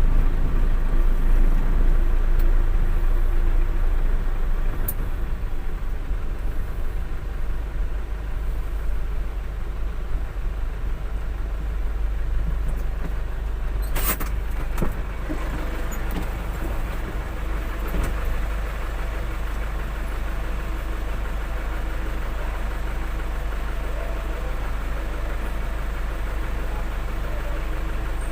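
Truck running, a steady low rumble, with one sharp click about halfway through.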